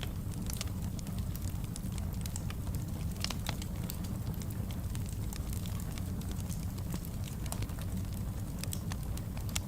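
Fireplace fire crackling: a steady low rumble with frequent sharp snaps and pops, a louder pop about three seconds in.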